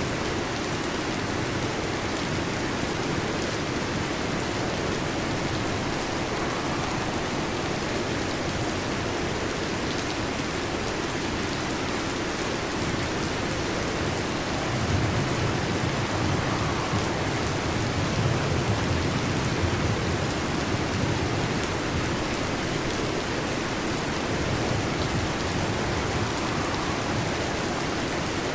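Heavy rain drumming steadily on a metal roof, with a low rumble of thunder swelling about halfway through.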